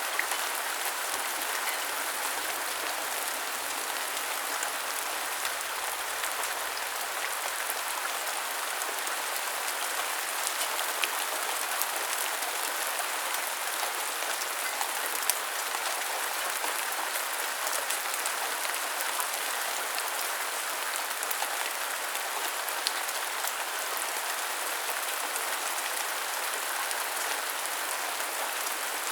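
Steady rain falling and pattering on surfaces, an even hiss with a few sharp ticks standing out now and then.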